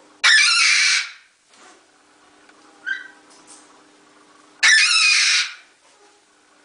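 A bird screeching loudly: two harsh calls, each under a second, about four and a half seconds apart, with a short fainter call between them. A steady low hum runs underneath.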